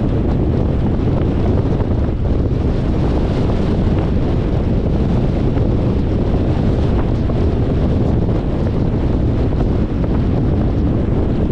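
Steady wind rushing over the microphone, with low road rumble from a moving car beneath it.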